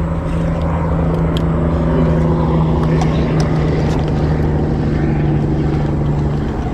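Small boat motor running steadily with a constant low hum.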